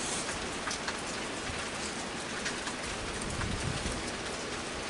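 Steady heavy rain falling, with sharp ticks of single drops striking nearby surfaces.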